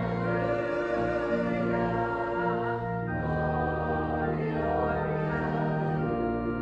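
Church hymn music in slow, long-held chords, with choir-like voices over organ.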